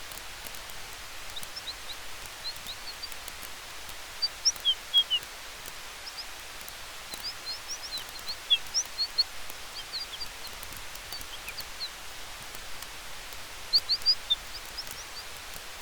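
Campfire and forest ambience: a steady soft hiss with faint crackling ticks, and scattered clusters of short, high chirps that come in three denser bunches.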